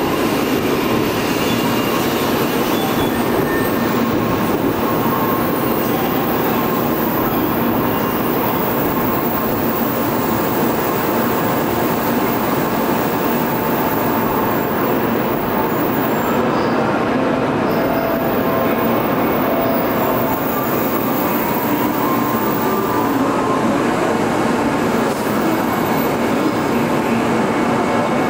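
JR Central N700 Series Shinkansen train rolling slowly alongside the platform as it brakes to a stop, a steady rumble of wheels and running gear. Faint high tones come in about halfway through.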